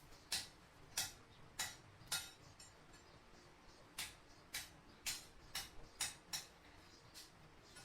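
Light hammer taps on sheet metal, about two a second, pausing briefly near the middle.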